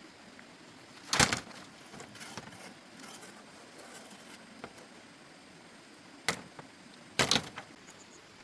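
Three loud, sharp knocks, about a second in and twice near the end, with a few faint taps between.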